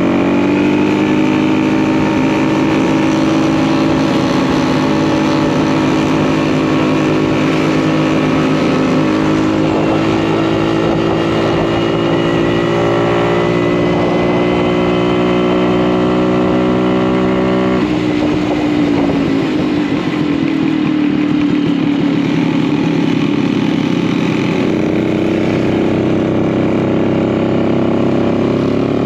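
Vintage two-stroke single-cylinder motorcycle engine running steadily under way. About two-thirds of the way through, the engine note drops suddenly as the throttle eases, then climbs again near the end.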